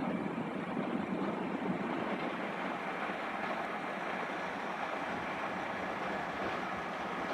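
Train running at a station, a steady rumble with no clear tones.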